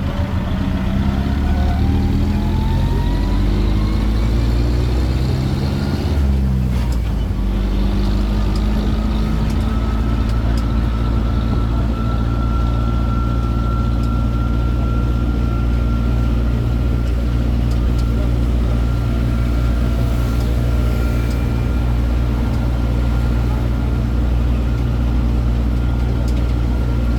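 Engine of a tourist road train running under way. Its pitch rises over the first few seconds, falls back about six seconds in, then holds steady with a thin high whine.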